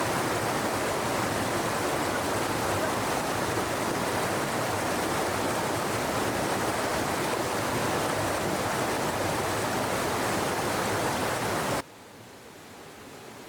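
Rushing stream water, a loud steady rush that cuts off suddenly near the end.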